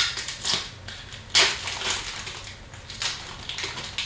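Upper Deck hockey trading cards and their pack being handled by hand: a string of brisk rustling swishes and snaps, roughly one every half second to second, the loudest about a second and a half in.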